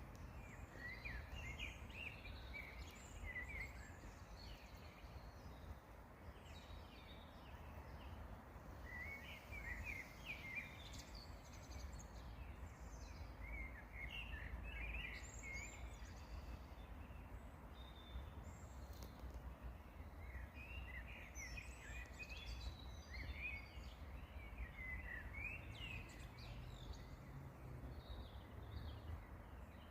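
Songbirds singing faintly in short twittering phrases that come and go every few seconds, over a steady low rumble.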